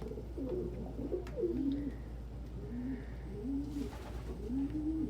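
Several domestic pigeons cooing, their low rolling coos overlapping and repeating.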